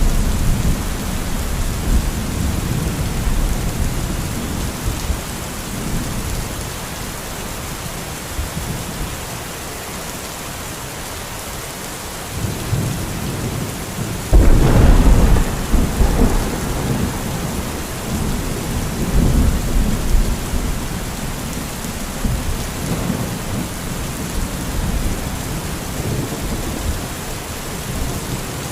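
Steady rain hissing under rolling thunder. A loud thunderclap breaks about halfway through and rumbles on for several seconds.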